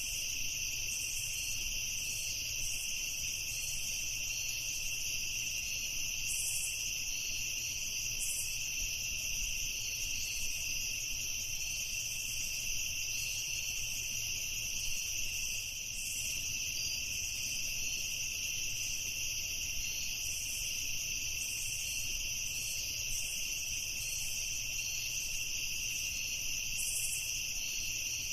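Crickets chirping in a steady, unbroken chorus at two high pitches.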